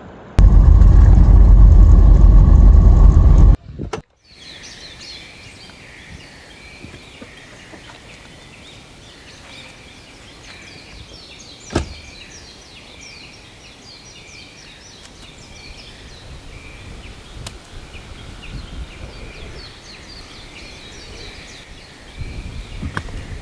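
A loud, low rush of noise for the first three seconds cuts off abruptly. It is followed by small birds chirping and twittering continuously, with one sharp click about halfway through.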